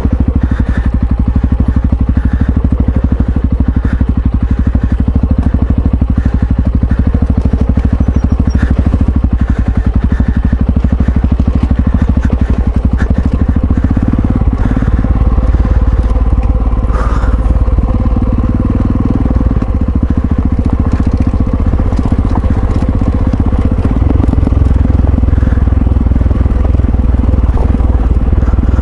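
Yamaha XT660Z Ténéré's single-cylinder engine running steadily as the motorcycle rides along; the engine note changes about halfway through.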